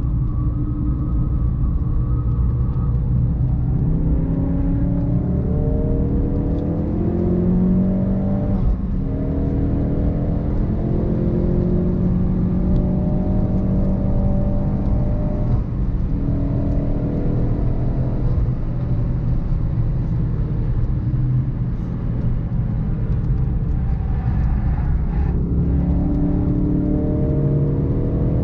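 Ford Focus RS Mk3's 2.3-litre turbocharged four-cylinder engine under hard acceleration on track, its pitch climbing through the revs several times and dropping back at gear changes, over a steady low rumble of road and tyre noise.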